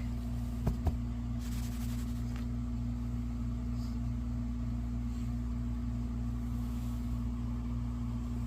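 A steady mechanical hum with one constant low tone, unchanging throughout, with two light clicks about a second in.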